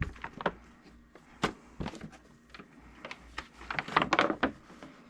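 Crinkling and rustling of a contour sheet, a foil-like sheet backed with felt, being handled. Scattered crackles come in denser clusters about a second and a half in and again around four seconds.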